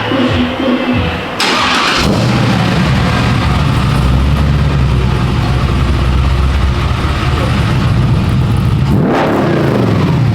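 Chevrolet C10 pickup's engine starting through a loud aftermarket exhaust: a short burst as it catches, then a steady rumbling idle, then revs rising and falling near the end.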